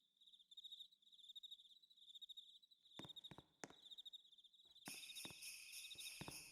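Faint cricket chirping, a steady pulsed trill. A few sharp clicks come about three seconds in, and sleigh bells start jingling about five seconds in.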